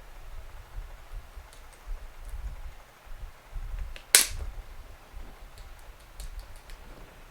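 One loud, sharp snap about four seconds in, among light clicks and low handling noise.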